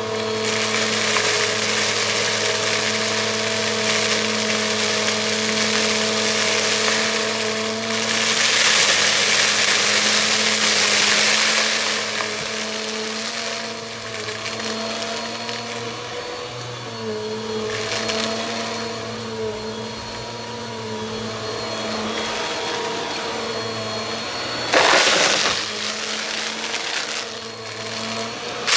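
Bissell vacuum cleaner running steadily: a motor hum with a thin high whine over a rush of air. The rush swells for a few seconds around a third of the way in, and again briefly near the end.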